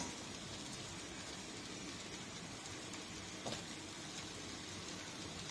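Chicken chow mein noodles frying in a metal wok, a steady soft sizzle as they are tossed and stirred with a spoon, with one light clink of the spoon on the pan about three and a half seconds in.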